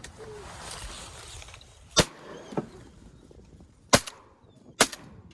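Three shotgun shots at ducks, about two seconds in, at four seconds and just under a second later.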